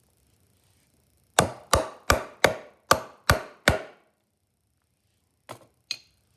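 Seven quick hammer blows, about three a second, then two lighter taps near the end: hammering through a cork gasket to cut its bolt holes.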